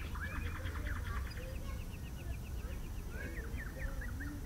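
Birds calling outdoors: quick series of short, high chirps that come thickest at the start and again about three seconds in, over a steady low rumble.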